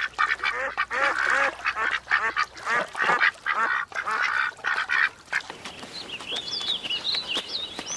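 Birds calling: a rapid, loud run of short repeated calls that stops about five seconds in, followed by quieter high whistled gliding notes.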